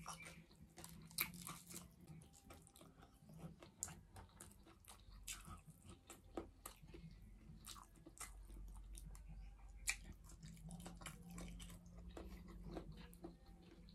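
A person chewing food close to the microphone: soft wet chewing and lip smacks with scattered small clicks and crunches, all faint, over a steady low hum.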